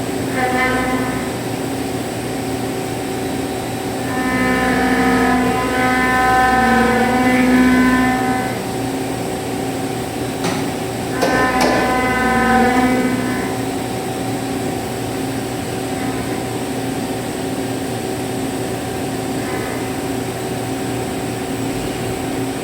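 CNC milling machine rough-milling aluminium alloy with a 25 mm cutter: a steady machine hum with a pitched, multi-tone cutting whine that swells twice, for a few seconds each time, with a short crackle just before the second swell. Otherwise the spindle and machine keep running steadily.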